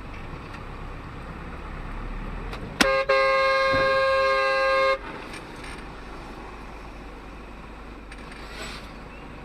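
Car horn: a short toot about three seconds in, then held for about two seconds before cutting off. Under it runs a steady low rumble of a car on the road.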